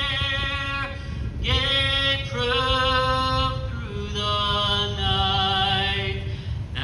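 Singing: a voice holding long notes, one after another, over a steady low background rumble.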